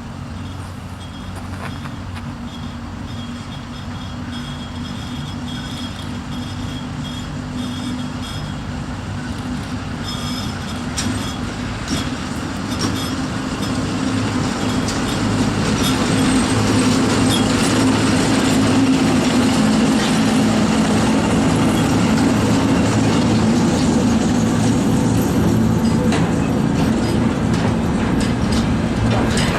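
ChME3M diesel shunting locomotive running with a freight train, its engine drone growing louder over the first half as it approaches, then holding steady, with wheels clicking over the rails.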